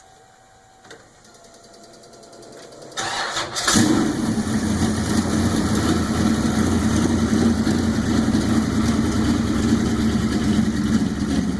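Fuel-injected 427 cubic-inch Ford small-block V8 of a 1940 Ford truck rat rod being started: it cranks about three seconds in, fires up a moment later, then runs at a steady, loud idle.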